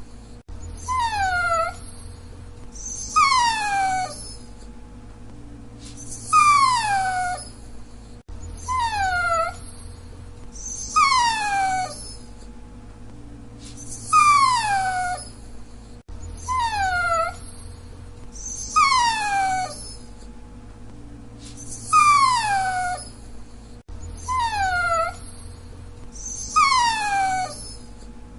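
Dachshund whining: short, high whines that slide down in pitch, repeating about every two and a half seconds over a faint steady hum.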